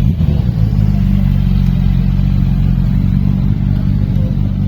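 Classic motorcycle engine running steadily at a low, even pitch.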